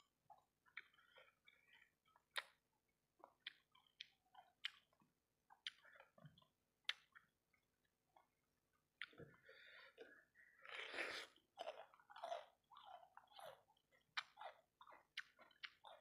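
Close-miked chewing of fried rice balls coated in thick sauce: wet smacking and sticky clicks of the mouth, with a busier stretch of chewing about two thirds of the way in.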